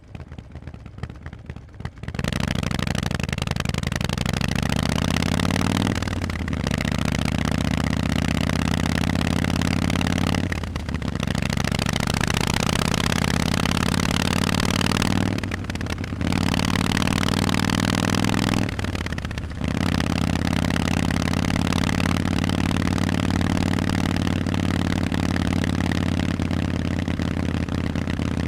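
Harley-Davidson Forty-Eight's 1200 cc air-cooled V-twin through Vance & Hines exhausts, quieter for the first two seconds, then pulling loud and steady under throttle. The note drops briefly four times, as at gear changes or throttle lifts, and picks up again each time.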